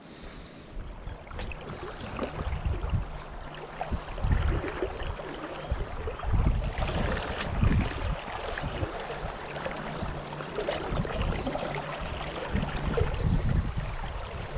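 River water rushing and splashing close to the microphone, with irregular wind rumble on the microphone, getting louder from about a second in.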